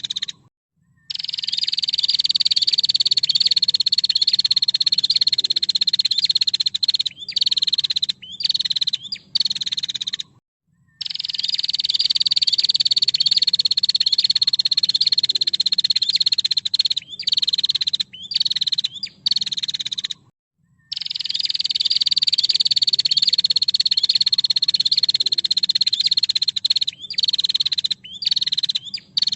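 Female prinia (prenjak) giving its long, rapid rattling call, a dense high trill held for about nine seconds and sagging slightly in pitch, then several short bursts. The sequence repeats three times, with abrupt silent gaps between the parts.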